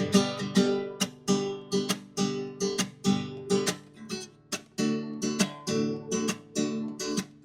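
Background music: acoustic guitar strumming chords in a steady rhythm, roughly two strums a second.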